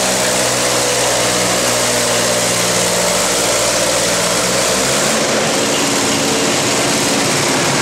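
Antique farm tractor engine running loud and hard under load during a tractor pull. About five seconds in the engine note changes and the deepest rumble drops away.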